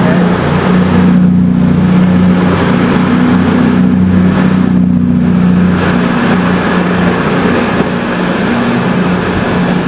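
Diesel engines of a CrossCountry Voyager diesel-electric train running under power as it pulls away, a loud steady low drone heard from right above the engine and exhaust. The drone eases off after about six seconds, while a thin high whine rises slightly toward the end.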